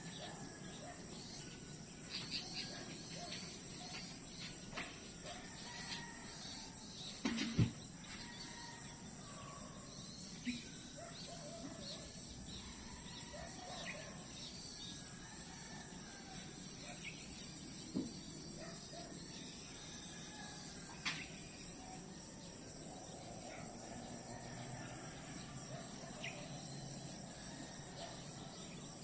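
Night-time-style insect chorus, crickets or similar, holding a steady high-pitched trill, with scattered short chirps and a few sharp knocks, the loudest about a quarter of the way in.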